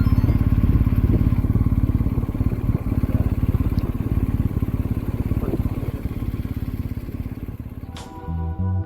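Motorcycle engine running steadily with a fast, even pulse, easing a little toward the end. Near the end, guitar music comes in.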